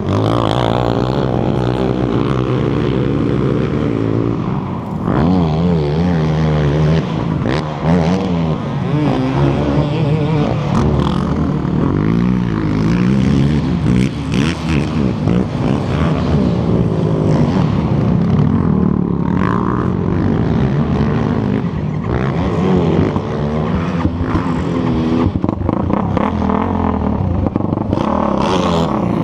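ATV engine racing hard around a dirt motocross track, revs rising and falling over and over with throttle and gear changes.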